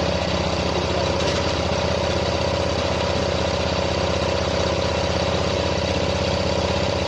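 Tractor engine that had been seized, now freed and running steadily at idle, with fast even firing pulses and no change in speed.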